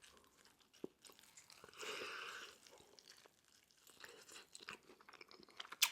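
Faint close-miked chewing of food: scattered soft mouth clicks and small crunches, with a short noisy chewing stretch about two seconds in and a sharper click near the end.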